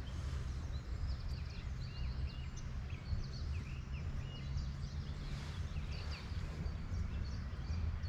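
Small birds chirping and singing, many short quick notes throughout, over a steady low rumble.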